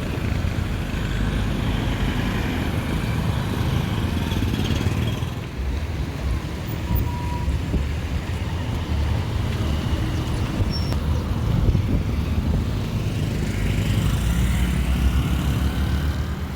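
Street ambience dominated by a steady low rumble, typical of road traffic or a vehicle going by.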